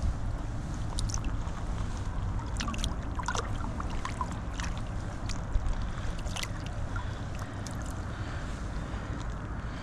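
Wind buffeting the microphone in a steady low rumble, with scattered light clicks and taps over it.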